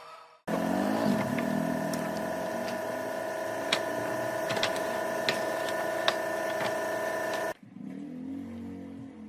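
A motor running steadily at one pitch, with a few sharp clicks over it; it starts abruptly about half a second in and cuts off sharply near the end.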